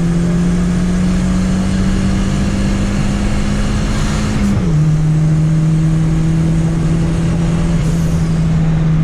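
Turbocharged Chevrolet Chevette's four-cylinder engine pulling under load, its pitch climbing slowly. About four and a half seconds in the pitch drops suddenly at a gear change, then it starts climbing slowly again.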